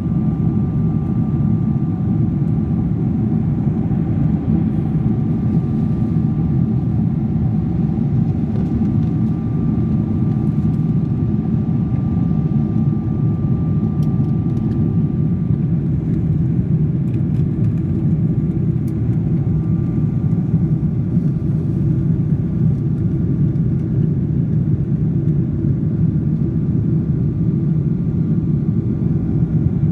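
Steady low roar of an airliner cabin in flight, the engine and airflow noise heard from inside, with a faint high whine that drops out for a few seconds midway.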